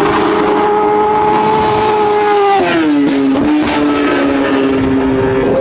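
A racing superbike's engine at high revs, a steady high-pitched note that drops sharply in pitch about two and a half seconds in and holds lower, as the bike passes at race speed.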